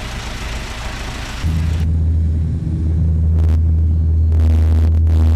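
Steady low engine drone of a small passenger plane heard inside the cabin, coming in strongly about a second and a half in after a stretch of broad rushing hiss.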